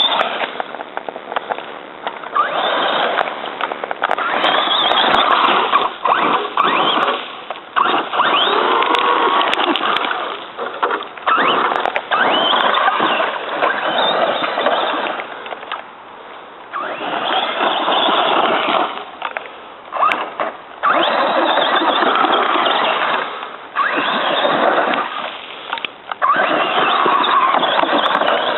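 Traxxas Slash 4x4 radio-control truck with a brushless electric motor, driving off-road over dirt in repeated runs of a few seconds each. The motor whine and tyre noise rise with each burst of throttle and drop back between runs.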